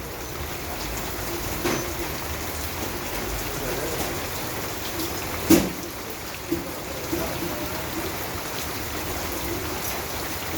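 Steady rainfall, with drops pattering on a surface. A few louder single strikes stand out, the loudest about five and a half seconds in.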